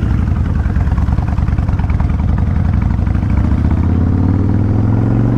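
Kawasaki Vulcan 1500 Classic's V-twin engine running while riding. About three and a half seconds in, it starts rising steadily in pitch as the bike accelerates.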